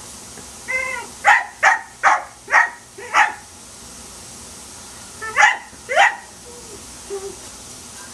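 Dachshund barking at the lawn sprinklers: a short high yelp, then five sharp barks in quick succession, a pause of about two seconds, and two more barks.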